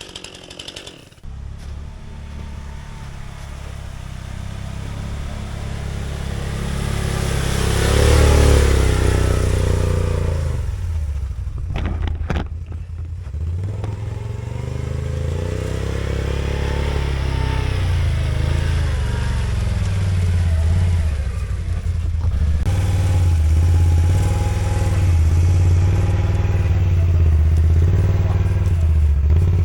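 An engine running, starting abruptly about a second in and growing louder over the next several seconds, then running on with uneven rises and falls in pitch.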